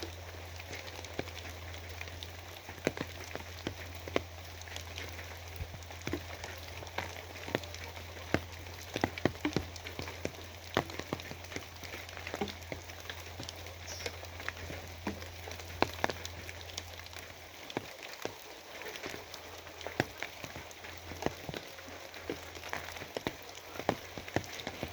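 Steady rain with many irregular sharp drop hits close by. A low steady hum underneath fades out about two-thirds of the way through.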